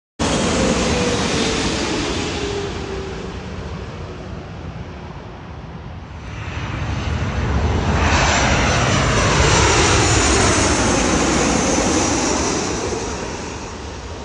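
Airliner jet engines passing low overhead: a roar with a slowly falling whine that fades. About six seconds in a second roar swells to a loud peak, then dies away near the end.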